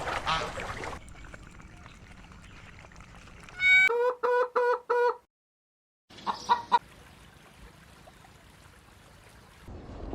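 Chicken clucking: a quick run of five short, even calls, then after a brief cut two or three more.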